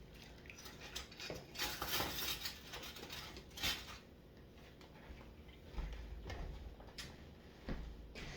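Dishes and silverware clinking against each other as they are washed by hand in bowls of soapy water, with a couple of short noisy swishes of water and scrubbing about two and three and a half seconds in.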